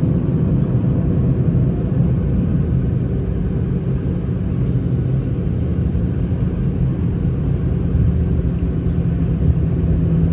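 Steady low drone inside the cabin of an Airbus A319, from its CFM56 engines, with a constant low hum under an even rush of noise.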